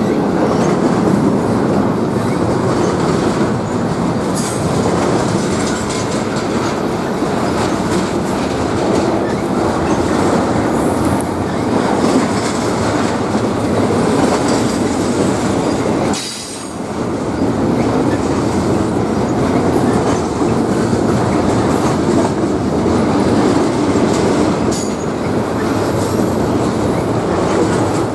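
Train rolling past at close range: a steady loud rumble and clatter of wheels on rail, with a few brief high wheel squeals. The sound dips briefly about sixteen seconds in.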